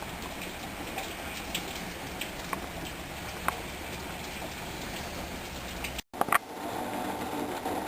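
Heavy rain heard from indoors: a steady hiss with scattered individual drops ticking. About six seconds in the sound cuts out for a moment and returns as a steadier hiss.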